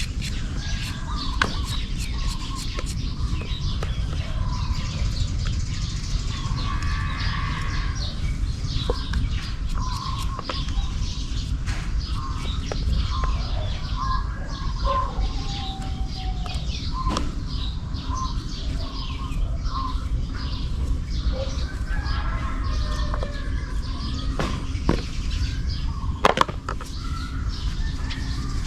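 Outdoor ambience of birds chirping on and off over a steady low rumble, with scattered clicks and taps; the loudest tap comes a couple of seconds before the end.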